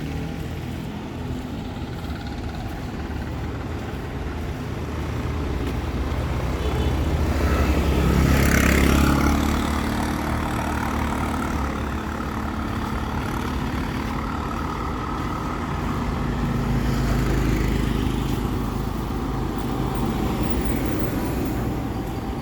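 Town street traffic: engines running under a steady rumble, with one vehicle passing close about eight seconds in, the loudest moment, and another swelling past near the end.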